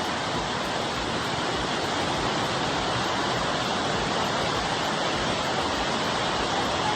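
Cascading waterfall rushing steadily over rock terraces: the strong, even roar of fast-moving water up close.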